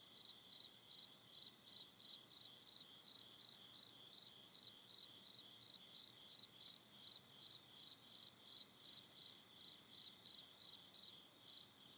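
A cricket chirping in a steady, even rhythm of short high-pitched chirps, about three a second.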